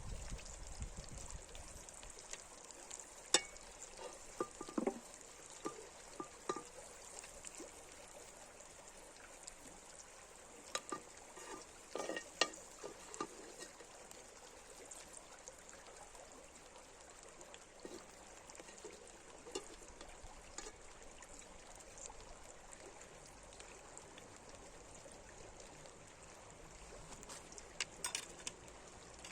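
Faint steady trickle of running water, with scattered light clicks and taps, a cluster of them in the first half and a few more near the end.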